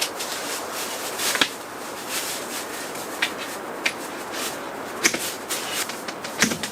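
Camping gear being handled and set up inside a canvas tent: scattered clicks and knocks, over the steady rush of blizzard wind on the tent.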